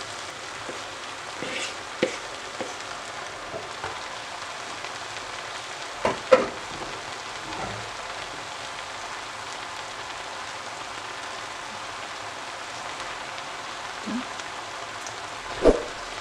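Ground-meat picadillo with fruit frying in a pan, a steady sizzle, broken by a few short knocks, the loudest about six seconds in and near the end.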